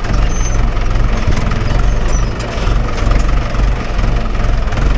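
Mahindra 575 DI tractor's diesel engine running steadily, a loud continuous rumble.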